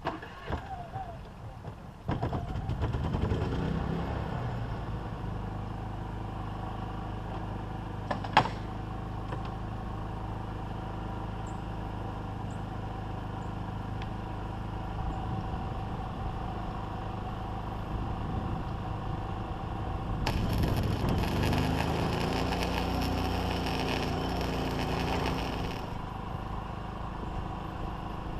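An engine starts about two seconds in and runs steadily, with one sharp click about eight seconds in, then works louder and rougher for several seconds near the end before settling back.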